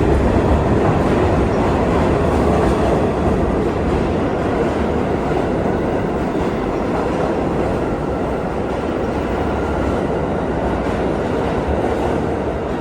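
New York City Subway train running through an underground station: a loud, steady rumble of wheels on the rails, easing slowly toward the end.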